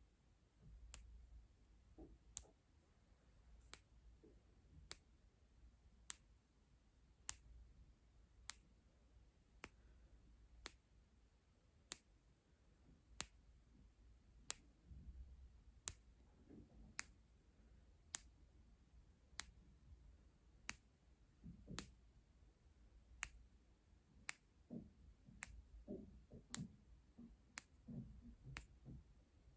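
Sharp, quiet clicks repeating evenly about once every 1.2 seconds, like a steady tick, over faint soft rustling.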